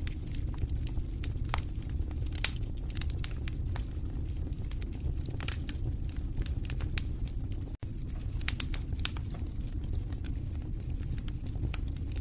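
Fire burning in a fireplace: irregular sharp crackles and pops over a steady low rumble of the flames, with one louder pop about two and a half seconds in. The sound cuts out for a split second near eight seconds in.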